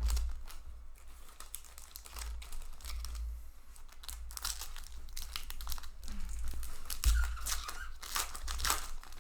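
Crinkling and tearing of a Magic: The Gathering booster pack's foil wrapper as it is handled and opened, in irregular crackles, with a few dull bumps, the loudest about seven seconds in.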